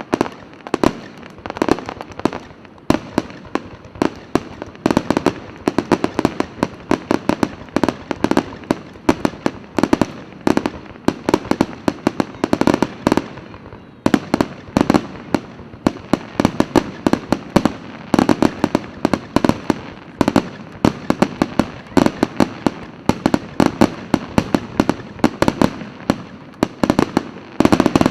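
Aerial fireworks going off in a dense, rapid barrage: several sharp bangs a second over a continuous rumble of bursts, with a brief lull about halfway through.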